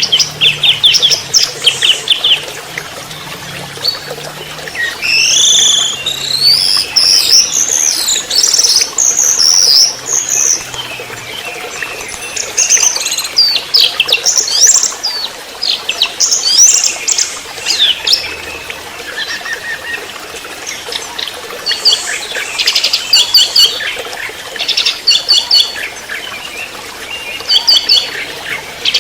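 A young orange-headed thrush (anis merah trotol) singing a fast, varied song. It gives rising whistled sweeps and bursts of rapid chattering notes, with short pauses between phrases.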